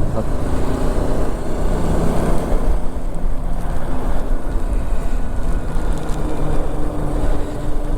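Motorcycle engine running at a steady road speed, with wind rushing over the microphone.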